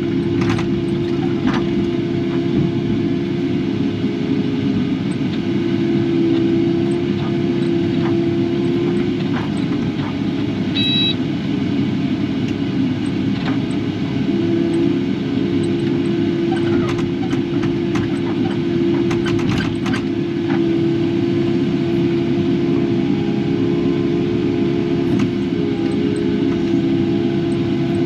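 Kubota KX080 excavator's diesel engine running steadily under working load, heard from inside the cab, with a steady droning tone. Occasional light knocks and clicks from the machine at work cut through it.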